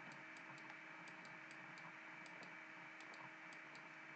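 Near silence: room tone with a faint steady hum and faint irregular clicks, a few a second.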